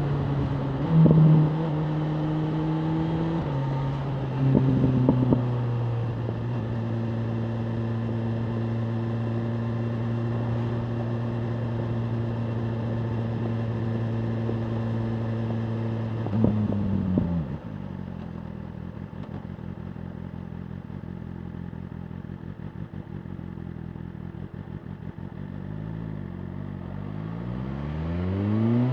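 BMW M1000R Competition's inline-four engine under way: a steady cruising note with a couple of short loud spikes in the first few seconds, then a brief spike and a sharp fall in pitch about halfway through into lower, quieter running as the bike slows, and a rising pitch as it accelerates again near the end.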